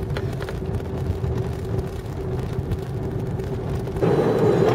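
Steady airliner cabin noise after touchdown: a low engine-and-airflow rumble with a steady hum. Near the end it steps up, louder and fuller.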